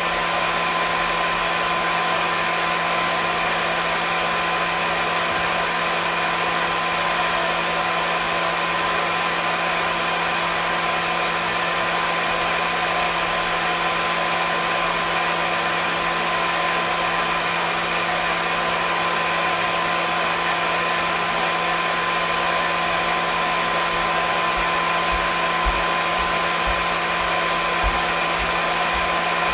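Hair dryer running steadily: an even rushing hiss of air with a constant motor hum and whine, unchanging throughout.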